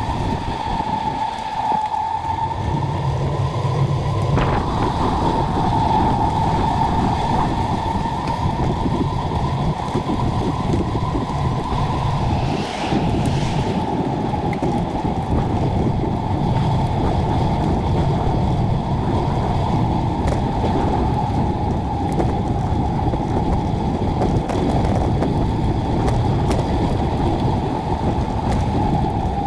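Steady traffic and road noise heard from a moving bicycle, a continuous rumble with a constant hum, swelling briefly now and then as vehicles pass.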